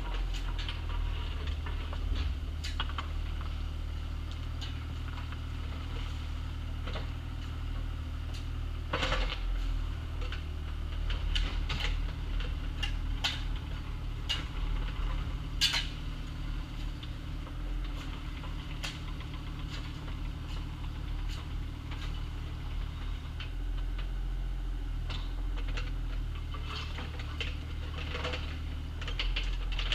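Bobcat compact excavator's engine running steadily, with scattered metallic clanks and knocks of the bucket working gravel; one sharp clank about halfway is the loudest.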